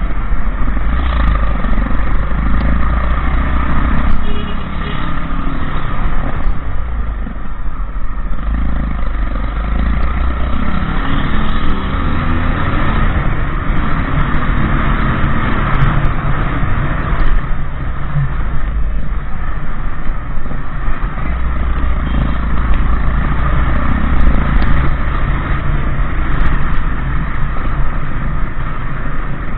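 Motorcycle engine running while riding, with engine pitch rising and falling now and then, under heavy wind rumble on the microphone.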